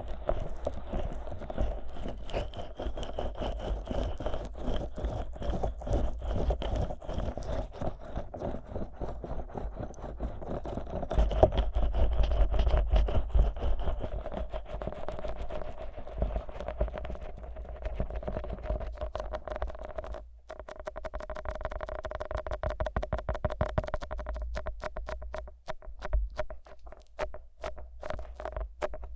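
Fingers thick with Vaseline rubbing and pressing on the silicone ears of a 3Dio binaural microphone, making dense, rapid sticky, wet clicking and squelching. It grows louder with more low rumble around the middle.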